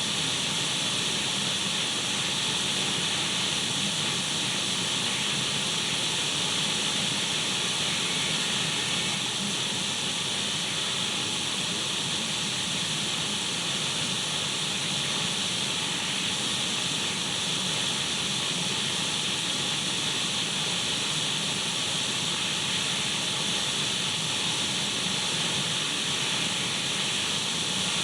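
Radio static: a steady, even hiss of an untuned radio, brightest in the upper range, used as white noise.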